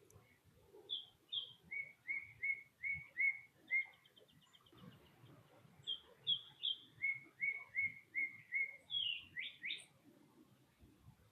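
A songbird singing two phrases: each opens with a few high whistled notes, then a run of five or six evenly repeated lower notes, with a quick high trill ending the first phrase and rising slurred notes ending the second.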